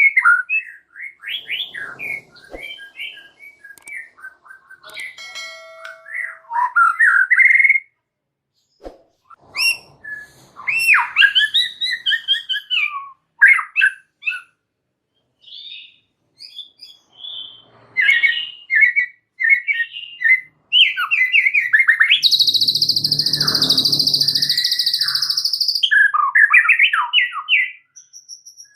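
White-rumped shama (murai batu) singing: a run of varied, rapid whistled phrases broken by short pauses, with a harsh buzzy stretch of about four seconds near the end.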